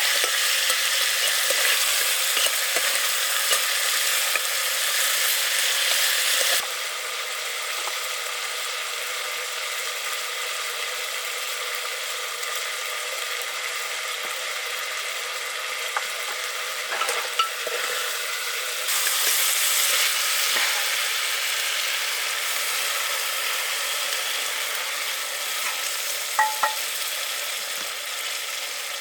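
Pork curry sizzling as it fries in a pan, with a few brief clinks of stirring. The sizzle drops to a lower level about a quarter of the way in and grows louder again about two-thirds through.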